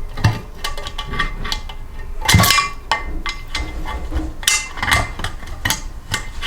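Screwdriver working against a valve spring and retainer in a small Briggs & Stratton engine block, levering the retainer into its notch to free the valve: a run of metallic clicks, scrapes and clinks, with a louder clank about two and a half seconds in.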